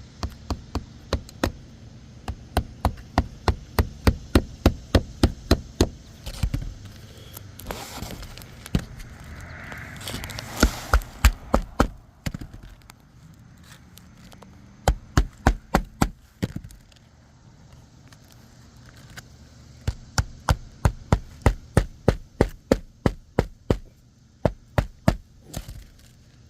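Hammer blows during a shingle roof repair, struck in quick runs of about four blows a second with short pauses between the runs.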